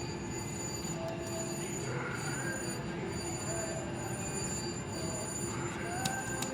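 Casino floor din of slot machines: steady electronic tones with short beeping jingles now and then, and a couple of sharp clicks near the end.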